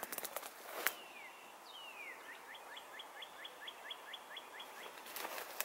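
A songbird singing faintly: two falling whistles, then a quick run of about a dozen evenly spaced notes, roughly five a second.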